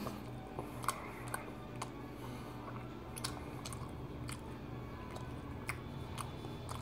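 A person chewing a bite of a microwaved Philly steak pastry pocket, with soft irregular mouth clicks, over a faint steady low hum.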